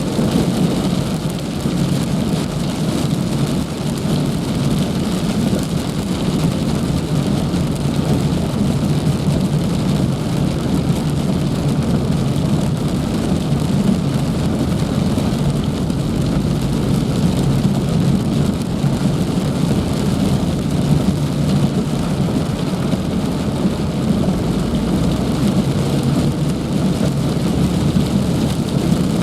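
Heavy rain falling in a loud, steady downpour.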